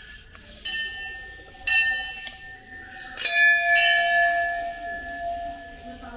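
Metal bells struck about four times, each stroke ringing on after it; a lower-pitched bell struck about three seconds in is the loudest and rings until near the end.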